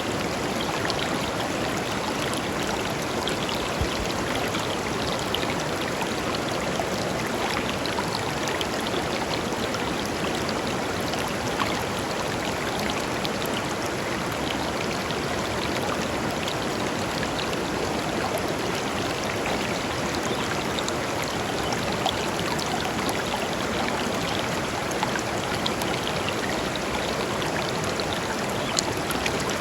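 Clear river flowing steadily over and between stones, an even rush of water with small splashes and trickles running through it.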